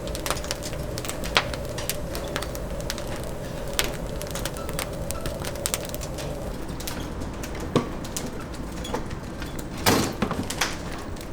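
Oak wood fire crackling, with many sharp pops scattered through it. Under it a steady hum stops about six and a half seconds in, and a single loud knock comes near the end.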